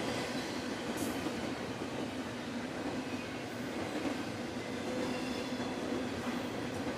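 Train moving on the tracks: a steady rumble with a low, even hum throughout, and a single sharp click about a second in.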